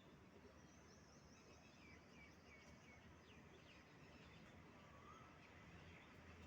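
Faint bird chirps over a low background hiss: a quick run of high notes, a few short chirps, and a faint whistle near the end.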